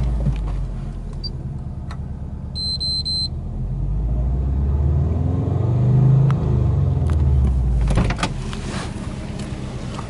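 Subaru Impreza WRX's turbocharged flat-four boxer engine running just after start-up, heard from inside the cabin: the revs climb gradually to about 3,000 rpm, peak about six seconds in, and fall back to idle about eight seconds in. A short high beep sounds about two and a half seconds in.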